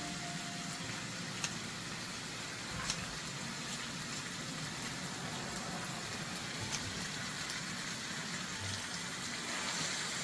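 Pork belly sizzling steadily in a hot cast-iron pot, with a couple of sharp clicks of utensils against the pot in the first few seconds.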